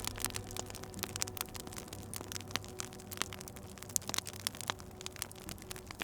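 Wood fire crackling in a fireplace: irregular sharp pops and snaps, several a second, over a soft hiss of burning.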